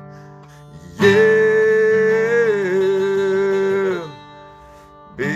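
Background music: a country-style song with acoustic guitar. Starting about a second in, a voice holds one long sung note for about three seconds, dipping slightly in pitch partway through, then fades out.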